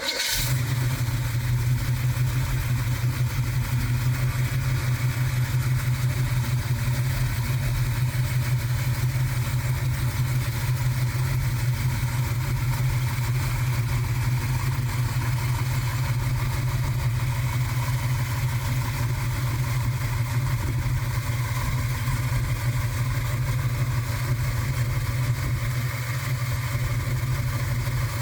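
A 1967 Chevrolet El Camino's small-block V8 fires up at the very start and settles into a steady idle with a low, even drone.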